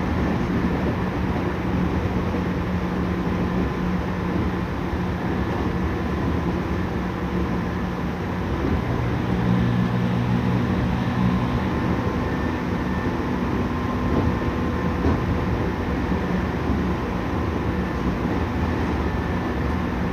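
Running noise inside a Tokyu 5000-series electric train: steady wheel-and-rail rumble with the hum of its traction motors, fed by a Hitachi IGBT-VVVF inverter, holding a near-constant pitch at steady speed. A lower hum joins briefly about nine seconds in.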